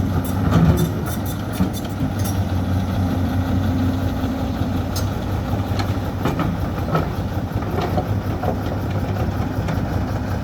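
Heavy engine idling steadily, with scattered light clicks and knocks over it.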